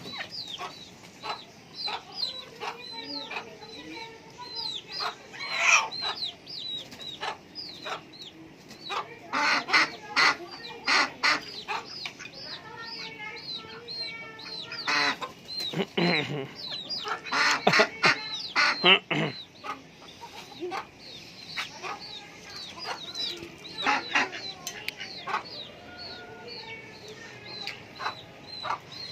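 Chickens clucking and calling, with many short high calls repeating throughout and louder clusters of calls at several points.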